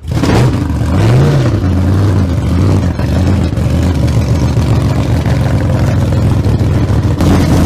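An engine running loud and steady, with a short rev up and back down about a second in.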